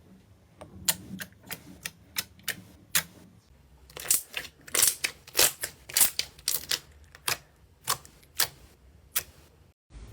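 Slime being worked by hand, giving a string of sharp clicks and pops, about two or three a second and closer together in the middle.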